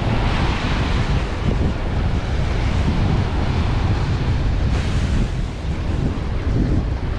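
Ocean surf breaking and washing ashore, with wind buffeting the microphone in a steady low rumble.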